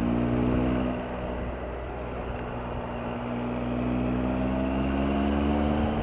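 Triumph Tiger 1200's three-cylinder engine pulling steadily uphill under load, with a low rumble beneath. Its pitch rises gradually over the last couple of seconds as the bike speeds up.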